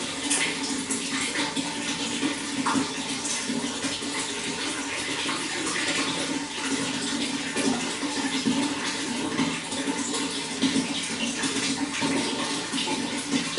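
Running water flowing and splashing steadily, a continuous rushing sound with small irregular splashes.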